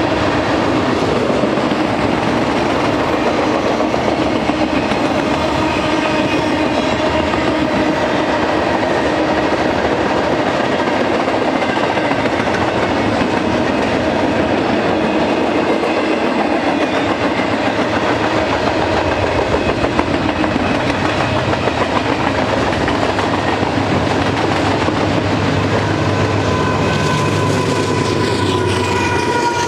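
Freight train cars rolling past: steel wheels clattering over the rails in a steady rush of noise, with several steady ringing tones running through it.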